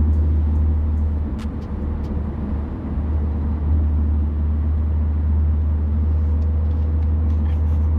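BMW F82 M4 heard from inside the cabin while cruising: a steady low drone from its twin-turbo straight-six, with road noise from the tyres. Pitch holds level with no revving.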